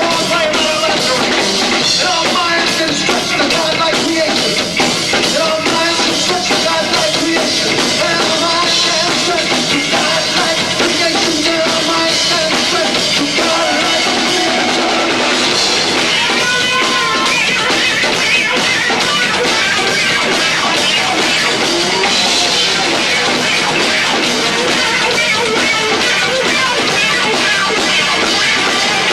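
Live rock band with two drummers playing loud and dense, drums, bass and guitar all going, in lo-fi sound from a 1990s camcorder's own microphone.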